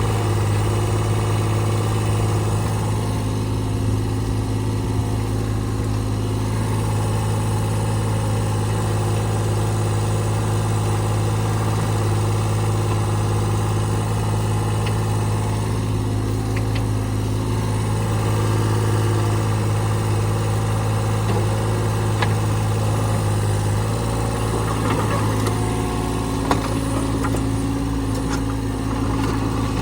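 Diesel engine of a CAT 303CR mini excavator running steadily under test, its note shifting slightly about two-thirds of the way through, with a few sharp clanks near the end.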